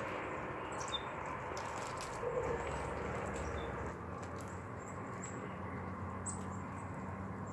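Steady outdoor background hiss with a few faint, short, high chirps from small wild animals.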